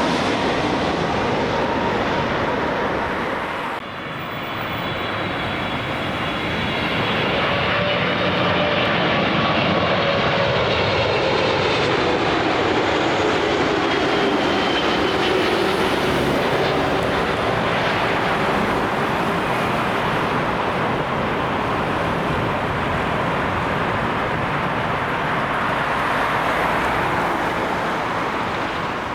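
Jet airliner engines running loudly as the aircraft passes, with an engine whine that slides down in pitch about halfway through.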